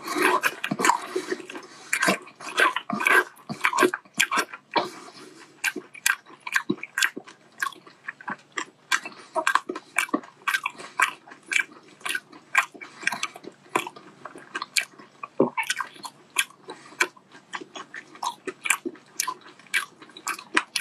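Close-miked chewing of soy-marinated giant shrimp meat: a steady run of sharp, wet mouth smacks and clicks, about two to three a second, busiest and loudest in the first few seconds.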